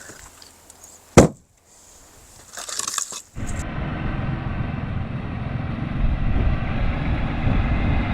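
A single sharp knock about a second in, then an engine running steadily from about three seconds in.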